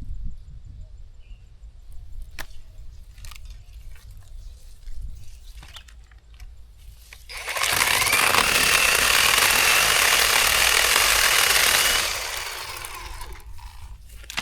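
Zhipu 48V cordless electric chainsaw starting about seven seconds in and running at full speed for about four and a half seconds, a high steady whine over loud chain noise, then winding down. Before it, only a few faint knocks.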